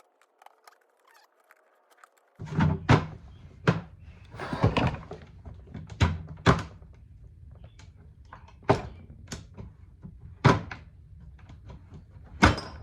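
Plastic center console lid and latch being worked: near silence at first, then a dozen or so sharp, irregular thunks and clicks, with a short scrape partway through, as the latch is adjusted and tried.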